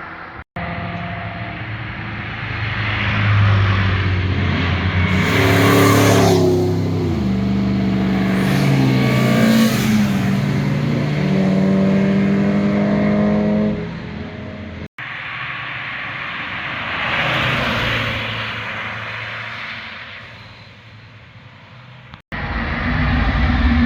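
Performance cars driving past on a winding road under hard acceleration, exhaust pitch climbing and dropping with each upshift. The sound cuts abruptly twice to another car passing, the last one fading away before the final cut.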